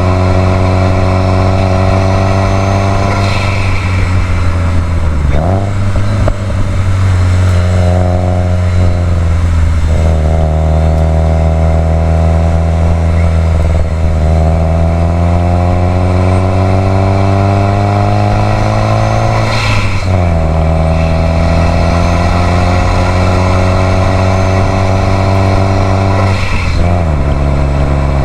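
Subaru WRX STI's turbocharged flat-four boxer engine pulling under load, its pitch climbing steadily through each gear, with gear changes several times where the pitch drops abruptly and then climbs again.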